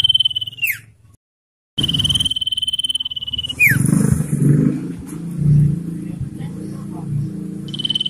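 Common iora giving its long, rapid trill held on one high pitch, each trill ending in a quick downward slur. One trill ends early, a second runs from about two seconds in, and a third starts near the end. A low rumbling noise fills the stretch between them.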